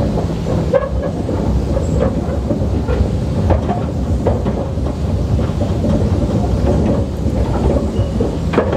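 Narrow-gauge train running along the track, heard from on board: a steady deep rumble of wheels on rails with irregular clicks and knocks from the rail joints.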